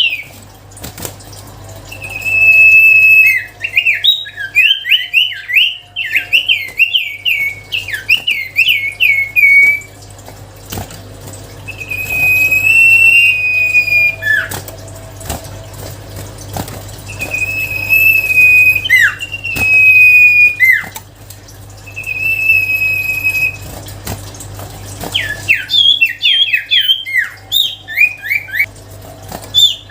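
Common iora (cipoh) in full song: long, steady whistled notes over a second each, alternating with quick runs of short sliding notes, the fast runs coming in the first third and again near the end.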